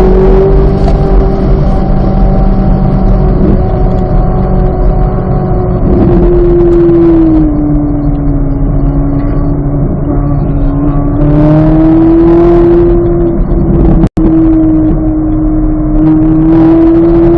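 2023 Chevrolet Corvette Z06's flat-plane-crank V8 running hard under load: the engine note drops about six seconds in, holds lower for a few seconds, then climbs again and holds steady. The sound cuts out for an instant about fourteen seconds in.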